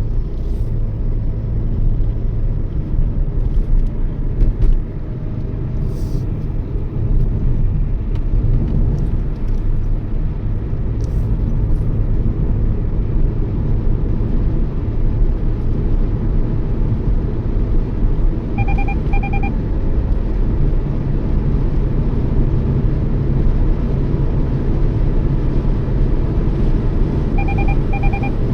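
Steady low engine and road rumble heard inside a moving Toyota Yaris. A short double electronic beep sounds twice, about two-thirds of the way in and again near the end.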